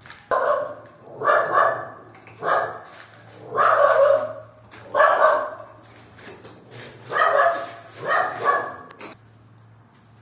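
A dog barking loudly, about seven barks in two runs, with a short pause in the middle.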